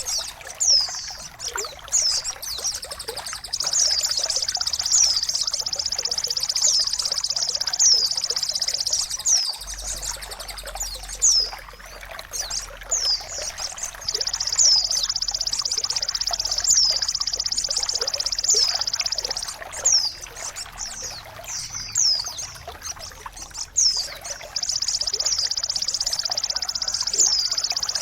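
Songbird tutoring recording over running water: sharp, high, downward chirps repeat about once a second, broken by long high buzzing trills that run for several seconds at a time, over a steady trickle of water.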